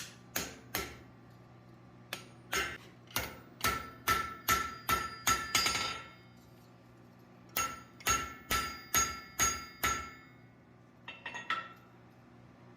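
Hand hammer striking hot steel on an anvil in runs of blows, about two a second, each blow followed by a bright ring. There are three runs with short pauses between them, then a few light, quick taps near the end.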